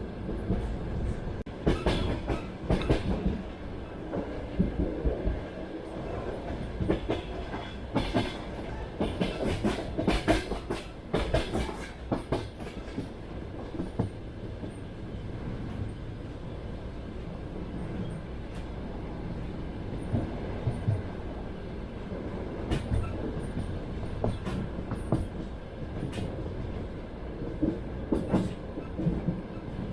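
Passenger train running on rails: a steady rumble of the carriage, with clusters of sharp wheel clacks over the rail joints several times.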